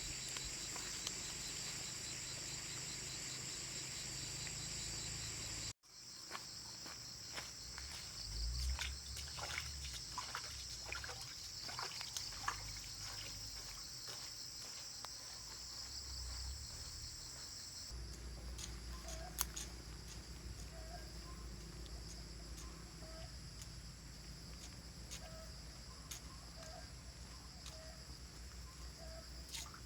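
Steady high-pitched chorus of insects, crickets or cicadas, with scattered clicks and knocks. The sound cuts out abruptly about six seconds in. From about twenty seconds on, a faint short call repeats roughly once a second.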